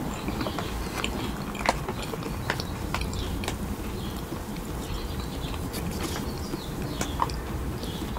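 Close-miked chewing of soft sweets, with scattered small clicks and crunches.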